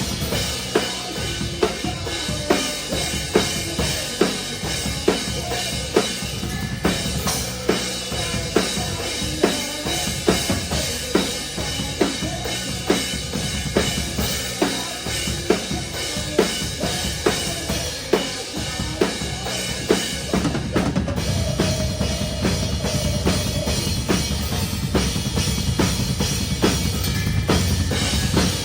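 Drum kit played live in a metalcore band, heard close up from the drummer's seat: loud, regular snare and bass-drum hits about twice a second over the band's music. About two-thirds of the way through the playing gets denser, with a heavier low end and faster hits.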